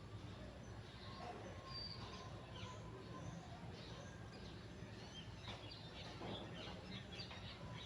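Faint chirping of small birds, with a flurry of quick chirps about six to seven seconds in, over a low steady hum.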